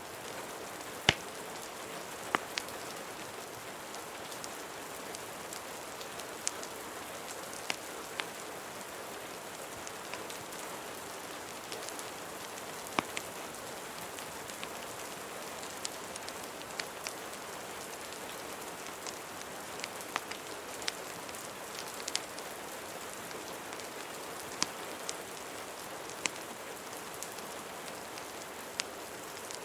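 Steady rain hiss mixed with irregular sharp pops and crackles of a wood fire, a few every couple of seconds.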